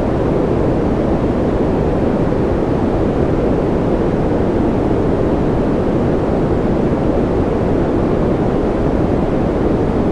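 Steady baby-sleep white noise: an unchanging, deep, muffled rush with most of its weight low and little hiss on top.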